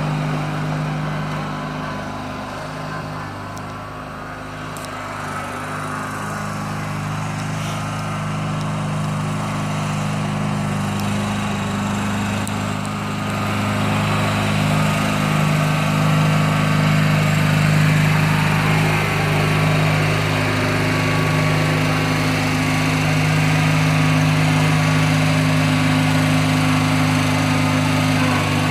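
Bolens garden tractor engine running steadily, getting louder after about the first five seconds and then holding. It runs well, in the owner's words.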